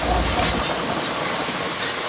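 Heavy earthmoving machinery running, a steady mechanical rumble and clatter. The deep low rumble drops away a little over half a second in.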